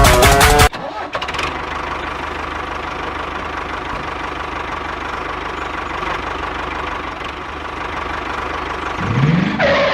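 A small engine running steadily, its pitch rising briefly near the end. It is cut in after a short tail of music.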